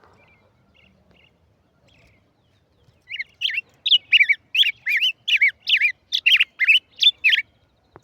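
A tigrillo songbird singing: a few faint chirps, then about three seconds in a loud run of about a dozen repeated swooping notes, roughly three a second, that stops shortly before the end.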